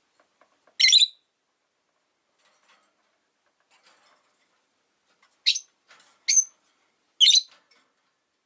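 Rosy-faced lovebirds giving short, shrill, high-pitched chirps: one about a second in and three more close together between about five and a half and seven and a half seconds. A few faint soft ticks come just before the first call.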